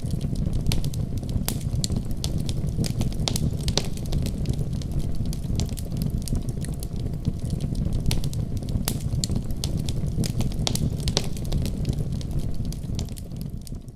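Wood fire crackling in a fireplace: frequent sharp pops and snaps over a steady low rumble, fading out at the very end.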